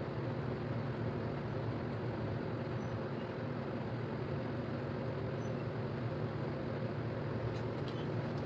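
A steady mechanical hum with even rushing noise, and two faint clicks near the end.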